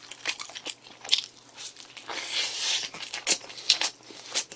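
Close-up chewing and biting of a fast-food burger: a run of short crunches and wet mouth clicks, with a brief breathy hiss about two seconds in.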